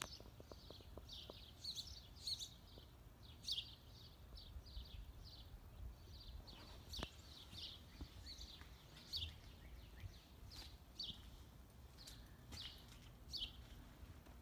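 Small birds chirping, short high chirps in quick, irregular succession, over a faint low steady rumble.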